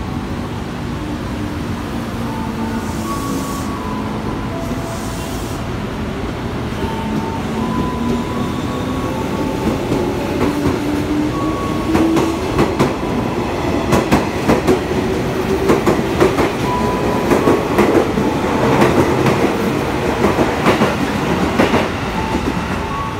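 KRL electric commuter train running on the track: a steady running noise with a whine that rises in pitch through the middle, then wheels clacking over rail joints from about halfway in, getting louder.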